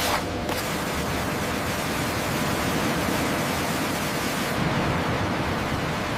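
Steady rushing hiss with no pitch or rhythm; its highest part drops away about four and a half seconds in.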